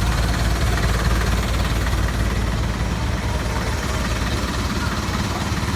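A vehicle engine running steadily at idle: a low, even hum.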